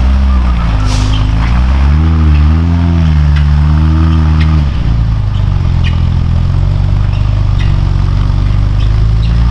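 Offroad military truck engine labouring hard under load, revs rising and falling for the first few seconds and then holding steadier, with scattered clicks and knocks over it. The onlookers wonder whether the noise is a blown universal joint or a brake.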